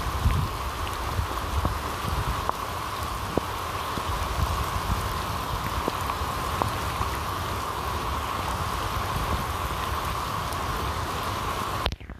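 Steady rain falling, a dense even patter with scattered individual drops ticking close by. It cuts off suddenly just before the end.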